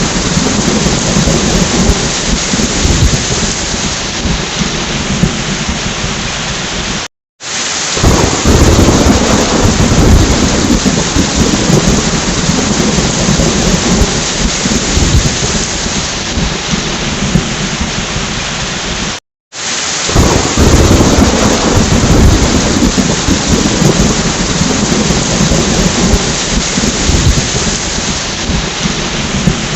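Heavy rain with rumbling thunder: a dense steady hiss over a low rumble that swells and eases. The sound cuts out to silence for a fraction of a second twice, about seven and nineteen seconds in.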